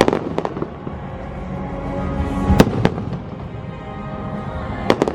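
Fireworks show: sharp bangs of fireworks bursting, a few right at the start, two about two and a half seconds in and a pair near the end, over the show's music soundtrack playing steadily.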